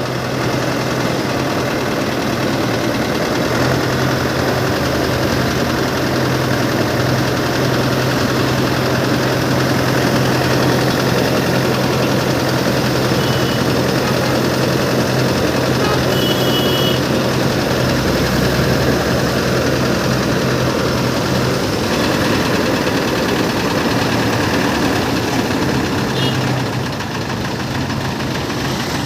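A motor running steadily, with a low hum that drops away about two-thirds of the way through and briefly comes back.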